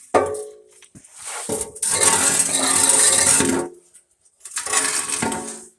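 Loose metal clinking and clanking as metal parts are handled. A longer, denser scraping rattle runs from about two to three and a half seconds in, and a shorter burst of clatter comes near the end.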